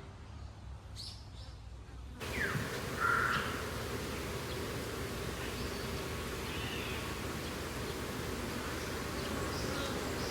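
Outdoor ambience: a steady hiss that sets in about two seconds in, with a few crow caws over it.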